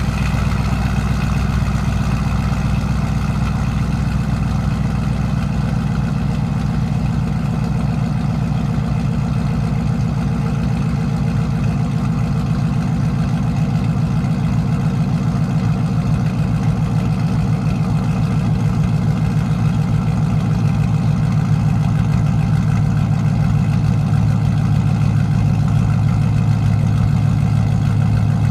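Chevrolet Silverado engine with an aftermarket 228 camshaft idling steadily, its exhaust pulsing rapidly and evenly, while warming up after a cold start in below-zero weather.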